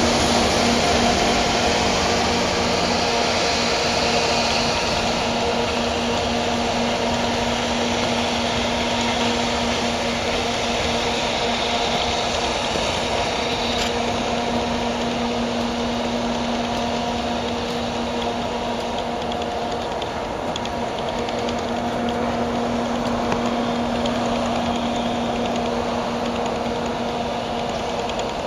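A freight train rolling past with a steady rumble of wheels on rail and a few held tones over it, slowly fading.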